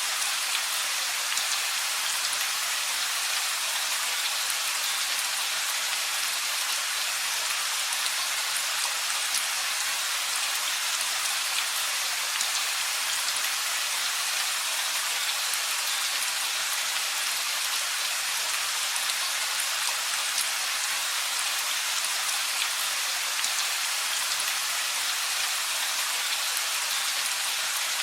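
Steady rain falling, with a dense patter of drops on surfaces; no thunder.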